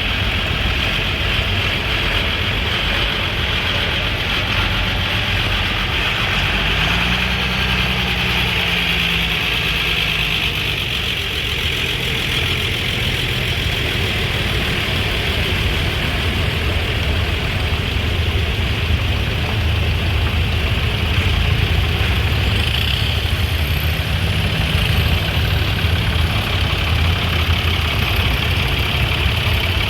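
Vintage engine idling steadily, with a low even running note and a constant hiss above it.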